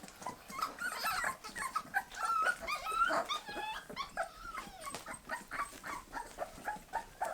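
Bull terrier puppies whimpering and squeaking in short, high cries that rise and fall in pitch, thickest in the middle of the stretch, among many small clicks.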